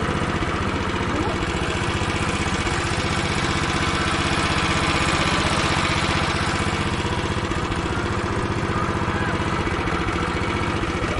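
A 4x4 jeep's engine running steadily, with a fast, even firing beat and a broad rushing noise over it.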